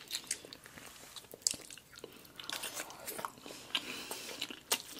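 Close-miked eating sounds from two people chewing seafood-boil food, including a bitten hard-boiled egg, with scattered small wet clicks and mouth smacks.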